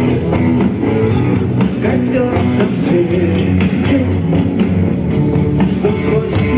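Live rock band playing: electric guitar and keyboards over a drum-kit beat.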